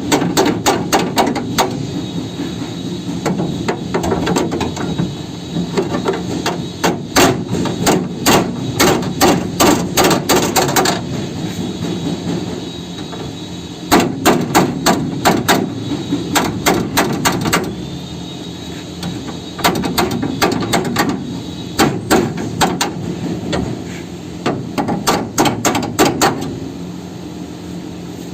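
Hammer striking steel chassis metal in quick runs of several blows a second, with two short breaks, over a steady low hum.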